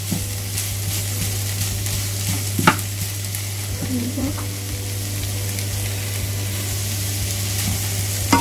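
Boiled beef chunks with onion, garlic and ginger sizzling in a nonstick wok while a wooden spoon stirs them, with a few knocks of the spoon against the pan, the loudest about two and a half seconds in.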